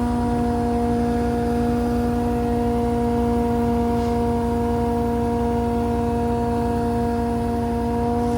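Engine running steadily at a constant speed, a low rumble with a steady whine over it.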